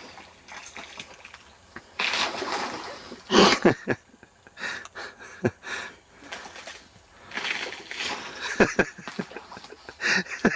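Water splashing in several separate bursts, with short sharp knocks among them.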